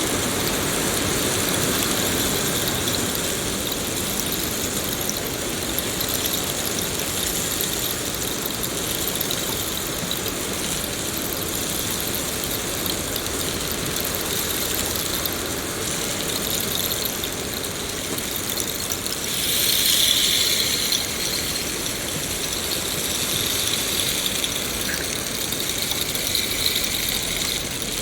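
Steady rain noise, an even hiss with no pauses. About two-thirds of the way through it swells for a second or two into a louder, higher-pitched stretch.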